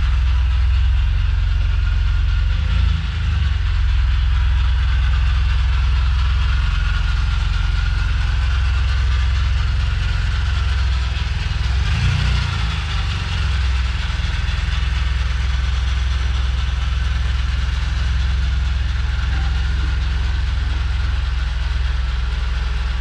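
Vauxhall Vectra VXR's turbocharged 2.8-litre V6 engine running steadily, a deep continuous rumble.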